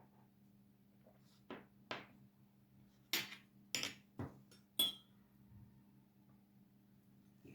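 Dishes and cutlery being handled: six knocks and clinks of crockery, spread over about three seconds and loudest in the middle. The last one rings briefly.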